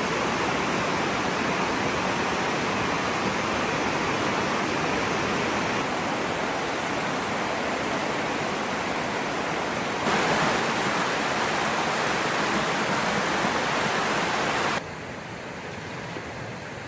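Waterfall: a steady rush of falling water. It jumps louder about ten seconds in and drops sharply quieter near the end.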